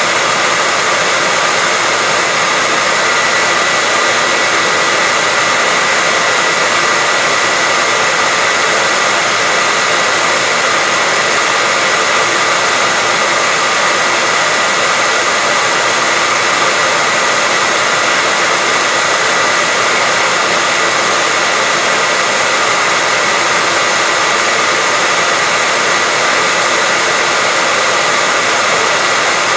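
Electric hair dryer running steadily: an even rush of blown air with a constant high whine from the motor and fan. It is played as continuous white noise to soothe a baby to sleep.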